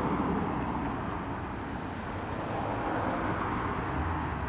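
Holden car's engine running as it rolls in slowly, a steady low note with the lumpy, very cammy sound of an aggressive camshaft.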